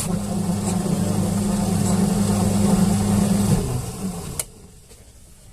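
Washing machine wash motor running with a steady electric hum while its belt is too loose to drive the pulley, which is being held still by hand. The hum dies away about three and a half seconds in as the motor stops, followed by a single sharp click.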